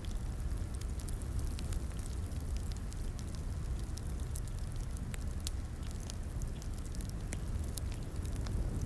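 Fireplace burning, with a steady low rumble of flames and frequent sharp, irregular crackles and pops from the wood.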